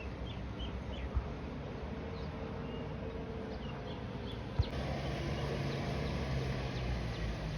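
Short bird chirps over a steady low hum, with two sharp clicks, one about a second in and one about four and a half seconds in.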